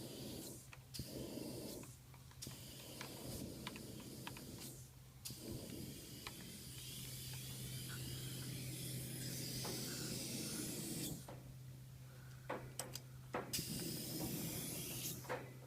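Dryer vent cleaning equipment running on a plugged vent: a steady hiss of rushing air over a low motor hum, with scattered light clicks. The hiss drops out briefly several times.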